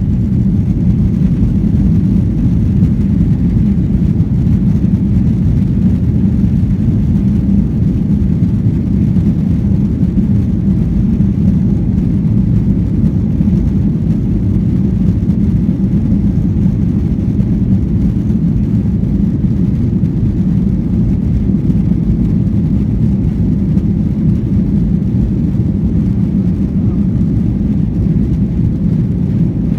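Aircraft noise during a take-off flight: a loud, steady low rumble that does not rise or fall.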